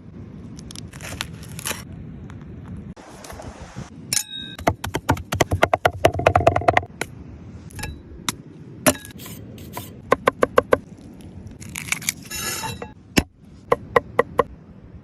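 Cooking utensils and cookware clinking, tapping and scraping in irregular strokes, with a fast run of taps a few seconds in, over steady low background noise.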